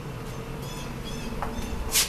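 A bird chirping repeatedly, short high chirps coming about every half second, with a sharp click near the end.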